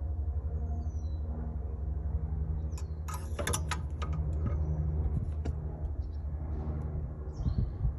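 Cummins Onan 2500 LP propane generator cranking on its starter with a steady, rapid pulsing, turning over without catching; the cranking stops near the end. A quick cluster of sharp clicks comes about three seconds in.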